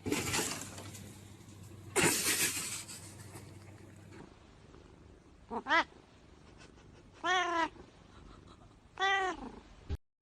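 Domestic cat meowing three times in the second half, short calls that rise and fall in pitch, the middle one the longest. A burst of rustling noise comes about two seconds in.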